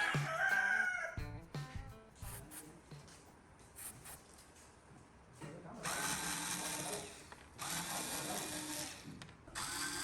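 A power drill runs in three short bursts about a second and a half long each, the first starting about halfway through.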